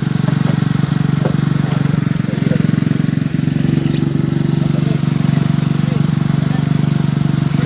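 A fishing boat's engine running steadily at idle, a low fast-pulsing hum.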